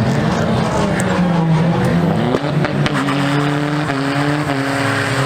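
A car doing a burnout: its engine held at high revs with the tyres spinning and squealing against the tarmac. The engine pitch rises about two seconds in, holds, then shifts down near the end.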